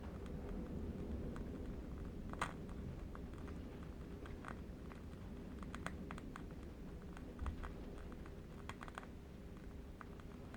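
Faint, irregular crackle of a burning candle wick: scattered small clicks, one a little sharper about two seconds in, over a low steady rumble of distant wind.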